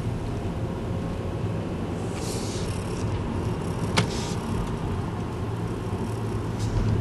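Car driving slowly, heard from inside the cabin: a steady low road-and-engine rumble. There is a short hiss a little after two seconds and a single sharp click about four seconds in.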